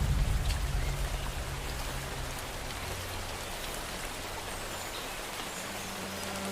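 Steady rainfall hissing evenly, with a low rumble at the start that dies away over about two seconds and faint low held notes underneath.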